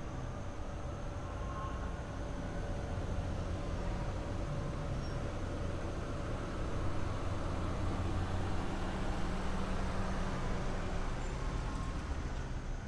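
A fire engine's motor running steadily as the truck rolls slowly past, a low rumble that swells a little around the middle.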